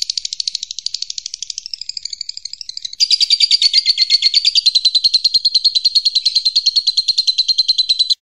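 Songbird trilling: a fast, unbroken run of high chirps, about a dozen notes a second. About three seconds in, a louder trill takes over and runs until it stops just before the end.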